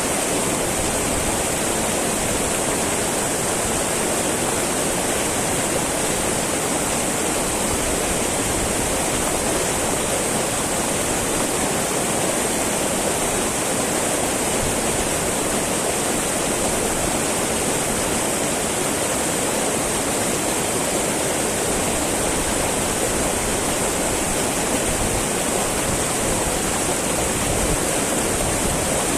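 Small mountain river flowing and babbling over rocks, a steady even rush of water.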